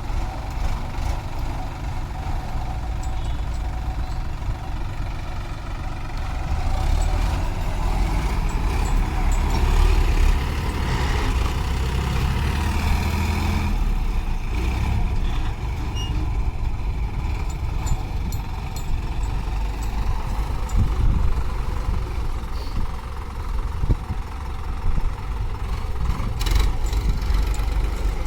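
Heavy diesel engine running steadily, louder for several seconds around the middle.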